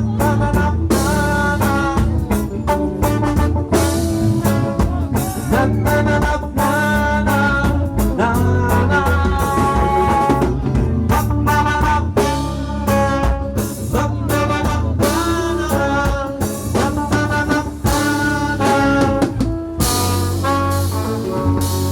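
Live reggae band playing an instrumental break of the song, a melody line over drum kit and bass.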